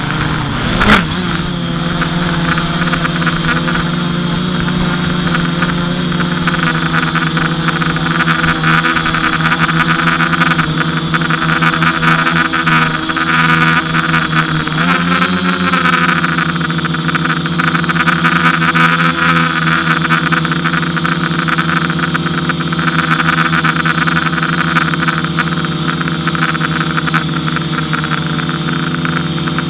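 FPV quadcopter's motors and propellers running with a steady, even whine, the pitch dipping and coming back briefly about halfway through. A sharp knock about a second in is the loudest moment.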